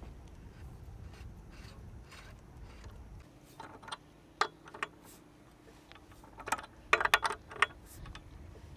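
Light metallic clicks and clinks of tools and bicycle parts being handled during a mountain-bike build. There are two single clinks about four and a half seconds in, then a quick cluster of clinks about seven seconds in.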